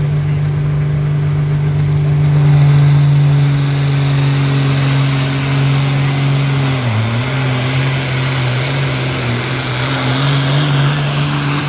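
Hot farm class pulling tractor's diesel engine running steadily at high revs. Its pitch drops sharply about seven seconds in, then wavers up and down as the throttle is worked.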